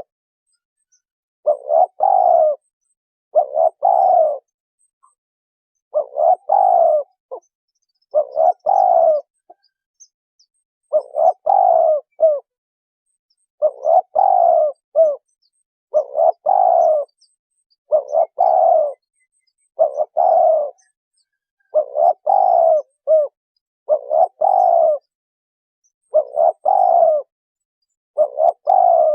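Spotted dove calling: a short phrase of low coos repeated over and over, about one phrase every two seconds, with silence in between.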